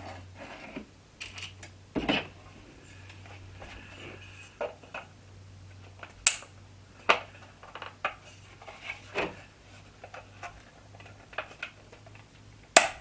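Hard plastic parts of a figure's display stand clicking and knocking as they are handled and pushed together, in irregular sharp taps and clacks with the loudest near the middle and the end; the piece is not going on, because it needs a clip.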